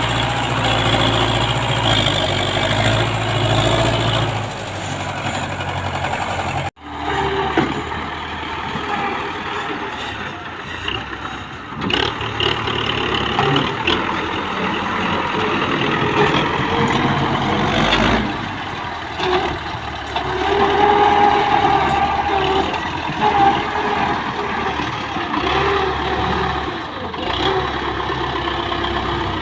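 Belarus tractor's diesel engine running under load, dropping out for an instant about seven seconds in where two clips are joined.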